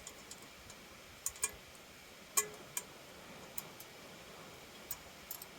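Scattered light clicks and taps, about eight spread unevenly over five seconds, from the parts of a hitch-mounted game hoist being handled and fitted together.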